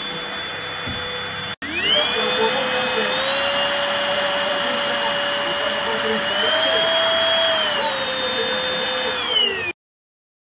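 Cordless stick vacuum's motor running with a steady whine. It cuts out briefly about one and a half seconds in, then spins up again with a rising whine. Its pitch steps up twice, drops back down, and starts to wind down before cutting off abruptly near the end.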